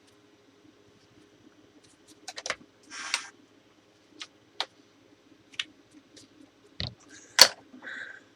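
Scattered light clicks and knocks of small hard objects being handled, with a brief rustle about three seconds in and one loud knock near the end, over a faint steady hum.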